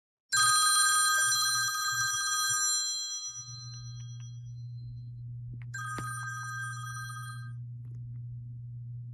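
A bell rings twice, about five seconds apart: a bright, many-toned ring that fades over a couple of seconds, then a shorter, weaker one. A steady low hum runs underneath.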